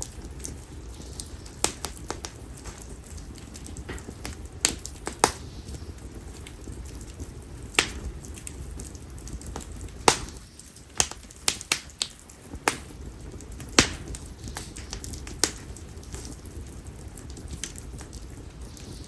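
Split konara oak firewood burning in an open fire, crackling with sharp, irregular pops and snaps over a steady low rush of flame.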